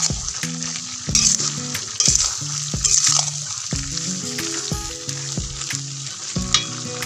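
Boiled beef kikil and green chilies stir-frying in a stainless steel wok, sizzling steadily as a spatula turns them, with the sizzle swelling about one, two and three seconds in. Background music with a stepping melody plays underneath.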